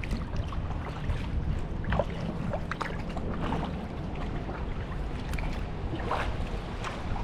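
Kayak paddle strokes: water splashing and dripping off the blades in short irregular spatters, over a steady low rumble of wind on the microphone.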